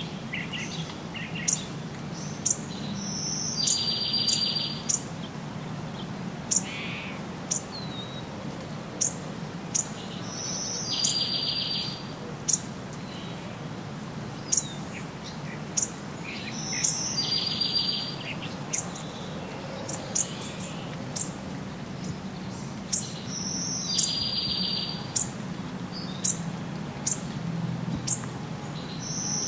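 Birds calling in the forest: a buzzy, trilled call about a second long repeats roughly every six to seven seconds, with many short, high chips in between.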